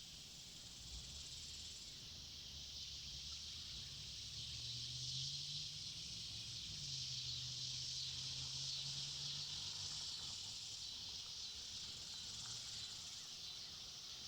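A steady chorus of insects in the woods, a high continuous buzz that swells in the middle and eases off again. A faint low drone sounds under it from about four to ten seconds in.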